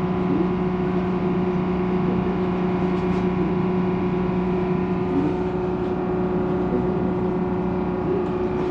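Steady droning hum of a dive boat's running machinery, holding one even pitch without change.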